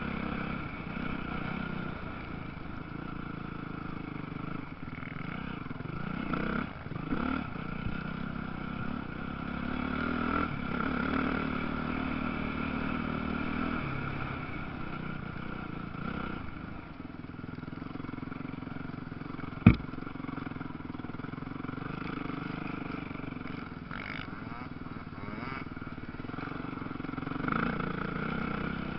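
Motocross bike engines running and revving, their pitch rising and falling. A single sharp click about two-thirds of the way through is the loudest sound.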